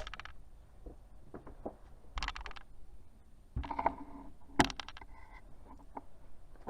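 Light clicks, taps and scrapes of small parts being handled, with one sharp click a little past halfway: the key fob's CR2032 coin-cell battery being handled for a test.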